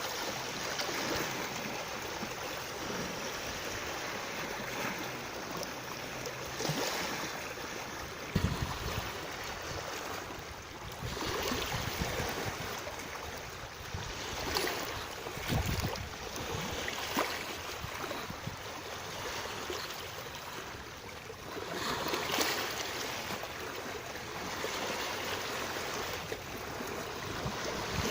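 Moving water, a continuous rush that swells and ebbs every few seconds, with a couple of brief low thuds.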